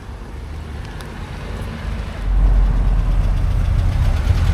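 A vehicle engine running with a deep rumble that grows louder, rising sharply about two seconds in as it comes close.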